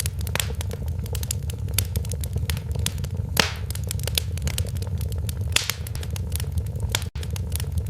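Wood fire crackling in a fireplace: irregular sharp pops and snaps over a steady low rumble of the flames, with a split-second dropout about seven seconds in.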